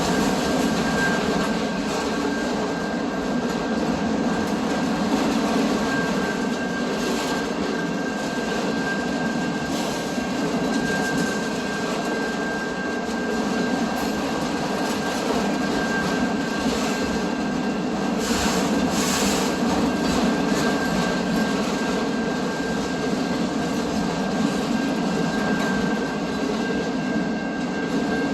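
A train rolling past with a steady, continuous noise of wheels on rails and a thin, high squeal held throughout.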